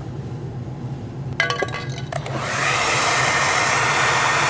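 A few sharp clicks, then a handheld hair dryer switched on: its blowing rushes up over about half a second and then runs steadily at full blast.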